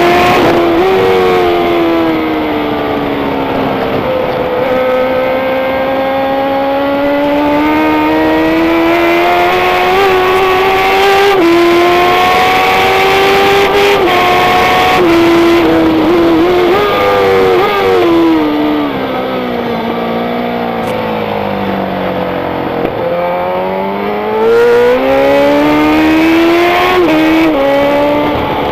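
Racing motorcycle engine running hard on track, its pitch repeatedly climbing and dropping as it accelerates, shifts and slows. A long fall in pitch bottoms out a little past the middle, then revs back up.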